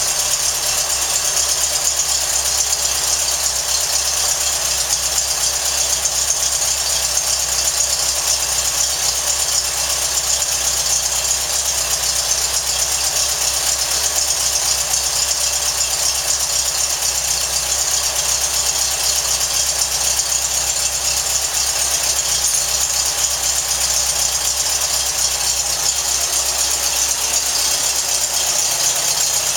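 1914cc air-cooled VW flat-four buggy engine idling steadily, with no revving.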